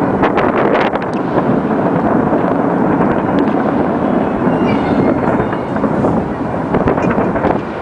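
Massed fireworks and firecrackers going off without pause: a dense rumbling crackle with sharp bangs scattered through it, thickest in the first second and again near the end.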